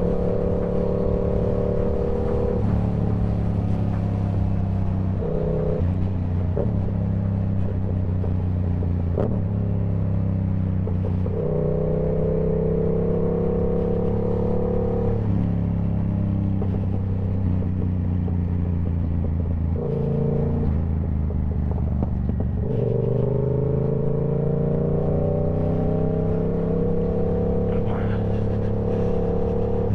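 2023 Yamaha YZF-R7's parallel-twin engine running through a TOCE full exhaust system while riding, steady at cruising revs. Several times it pulls harder, with the pitch climbing slowly, most of all in the middle and the last third.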